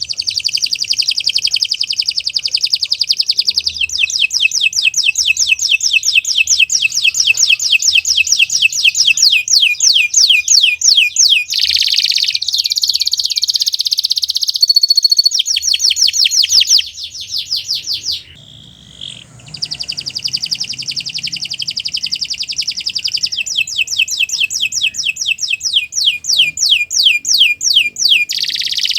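Domestic canary singing a long, loud song of fast trills, each made of many rapidly repeated short notes, with a brief break about two-thirds of the way through.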